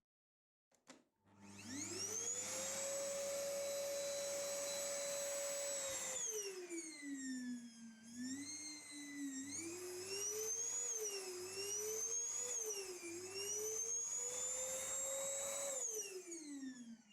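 Samsung SC5670 canister vacuum cleaner motor spinning up to a steady high whine. Its speed is then lowered and raised several times, brought back up to full, and finally runs down as it is switched off.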